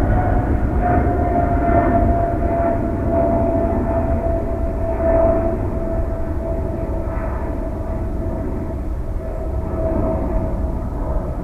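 Jet airliner engines running loud, with a single whine that slowly falls in pitch as the noise gradually fades.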